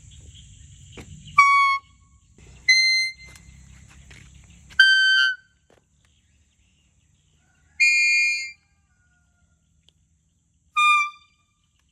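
A homemade leaf whistle blown in five short, shrill toots at differing pitches. The fourth toot is longer and rougher than the rest. Crickets chirp in the background during the first few seconds.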